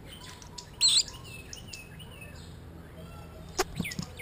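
Small songbird chirping: one loud, high chirp about a second in and fainter chirps scattered after it, with a few sharp clicks near the end.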